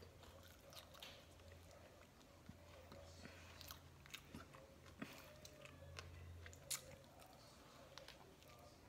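Faint close-up chewing and biting of a burger, heard as scattered soft mouth clicks and crunches, over a low steady hum.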